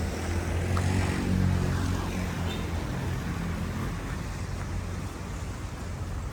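City street traffic: a motor vehicle's engine hum, loudest about a second or two in and then easing, over steady road noise.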